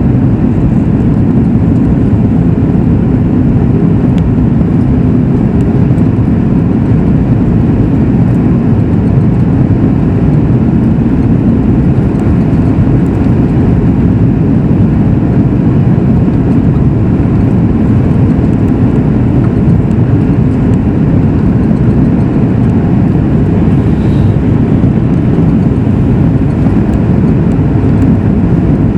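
Steady, even noise inside the cabin of a Boeing 737 MAX 8 airliner, mostly low in pitch: its CFM LEAP-1B engines running and air rushing past the fuselage.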